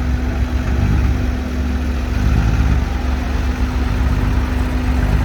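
Heavy diesel engine running steadily at a constant speed, a low rumble with a steady hum.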